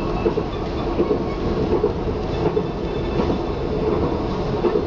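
KLIA Ekspres electric airport train running at speed, heard from inside the carriage: a steady rumble of wheels on rails, with faint irregular clicks.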